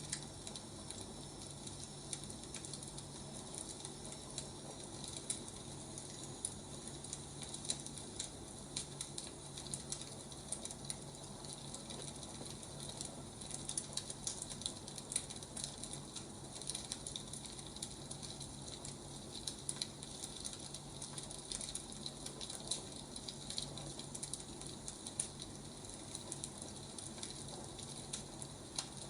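Wood fire crackling, with irregular small pops and snaps over a soft hiss and a steady low hum.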